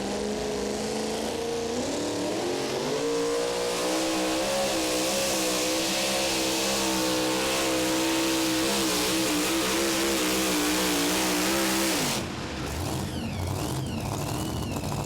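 Super modified two-wheel-drive pulling truck engine at full throttle, dragging the weight sled down the track. Its pitch climbs over the first few seconds, then holds high with a wavering pitch, and is cut off suddenly about twelve seconds in. A quieter rumble with a high whine that dips and settles follows.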